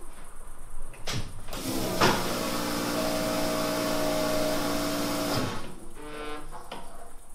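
A click, then the turbocharged BMW engine fires straight away on its first start after a year standing. It runs steadily for about three and a half seconds and then cuts off abruptly.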